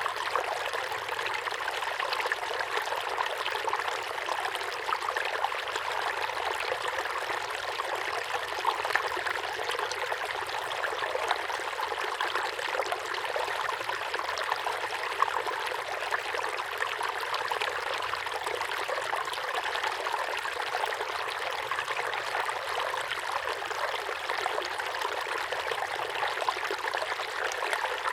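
Small waterfall pouring steadily into a pond: an even, splashy rush of water with many small droplet splashes and little deep rumble.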